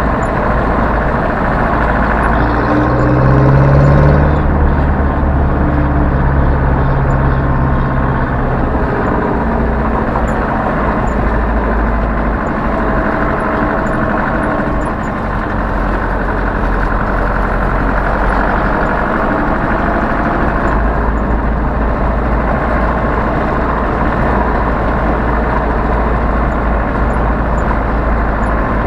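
Zetor 7011 tractor's four-cylinder diesel engine running under way, revving up briefly a few seconds in and then running steadily.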